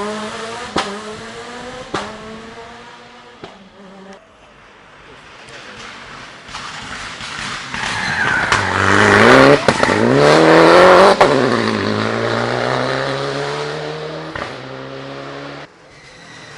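Rally cars at full race pace: one accelerates away through its gears with a few sharp cracks and fades out, then a second approaches, revving hard and loudest as it passes, and pulls away on a steadier engine note until the sound cuts off suddenly near the end.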